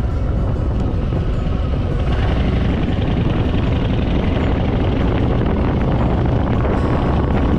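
Harley-Davidson Fat Boy's V-twin engine running under way, with wind rushing past, a little louder from about two seconds in.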